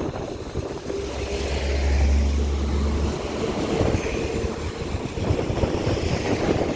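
Transport for Wales Class 197 diesel multiple unit departing, its engine running with a low drone that stops about three seconds in, under heavy wind buffeting on the microphone.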